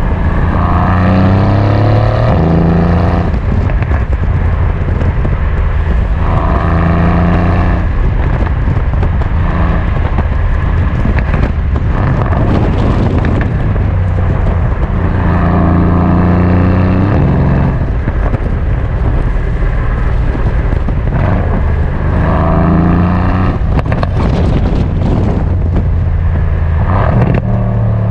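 Mercedes-AMG C63 S twin-turbo V8 pulling hard about four times, its revs climbing through the gears each time, with steadier running in between. Near the end there is a run of exhaust pops and crackles on lift-off.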